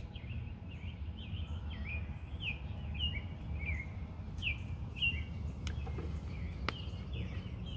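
Small birds chirping outdoors, a string of short, quick notes that drop in pitch, over a steady low background rumble. Two sharp clicks come about six and seven seconds in.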